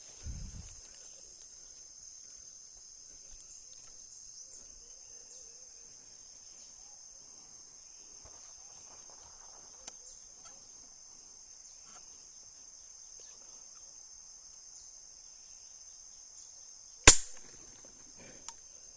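One sharp shot from a Sharp Innova pump air rifle near the end, over a steady high-pitched insect buzz; a smaller click follows about a second and a half later.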